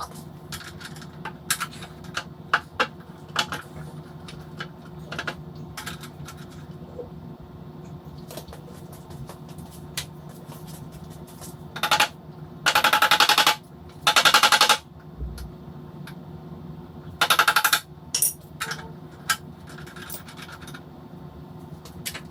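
Hand tools working on a 1955 BSA B33's fuel tank fittings: scattered metal clicks and clinks, with three loud bursts of rapid clicking, each about a second long, past the middle, over a steady low hum.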